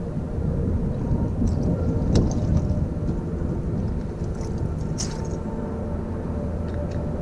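Wind buffeting the action camera's microphone in a snowstorm, a steady low rumble, with a few sharp clicks about 2 and 5 seconds in.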